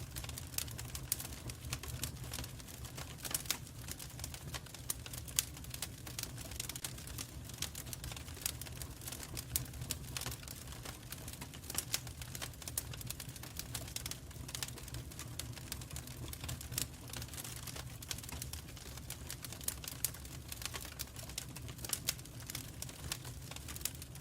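Fire crackling in a fireplace: frequent irregular sharp snaps and pops over a steady low rumble of the flames.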